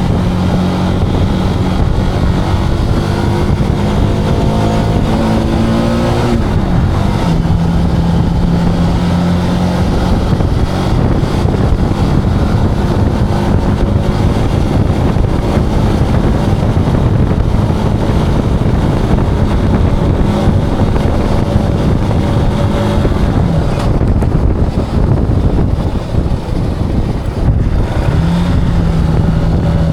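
Zontes cruiser motorcycle engine running on the road, with wind and road noise. Its note climbs for about six seconds, then drops sharply with a gear change and holds steady. Later it falls away as the throttle eases, and it picks up again near the end.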